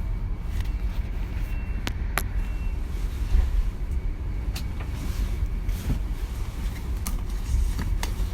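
Inside a moving DB Class 425 electric multiple unit: a steady low running rumble with scattered sharp clicks and creaks from the carriage, and a faint, brief high squeak about two seconds in.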